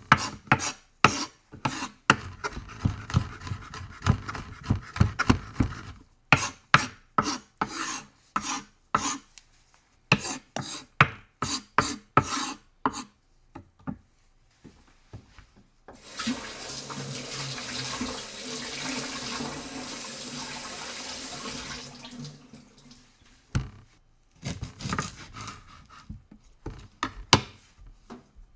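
Knife chopping on a cutting board in quick runs of strokes, then a kitchen tap running for about six seconds, then chopping again near the end.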